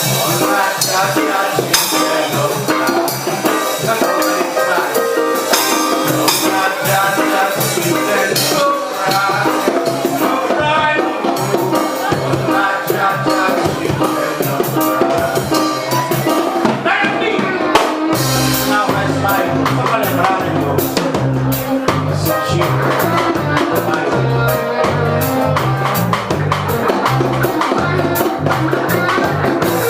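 Live reggae band playing an instrumental groove with drums and percussion; a deep bass line comes in about eighteen seconds in.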